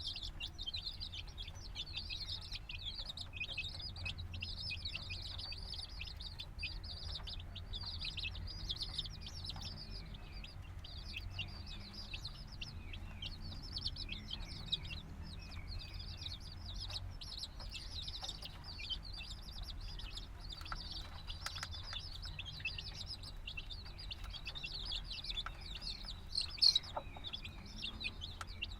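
A brood of chicks a few days old cheeping constantly: many short, high peeps overlapping without pause, over a low steady hum.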